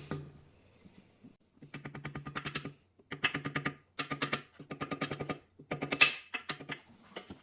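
Ratchet wrench clicking in a series of short bursts of rapid clicks with brief pauses between them, run down on fasteners during engine assembly.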